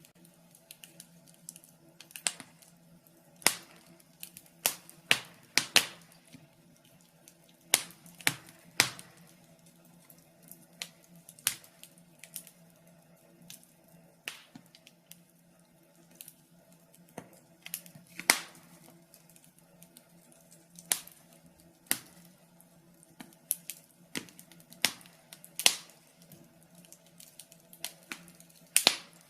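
Wood fire burning in a fireplace, crackling with sharp, irregular pops, often several in quick succession, over a faint steady low hum.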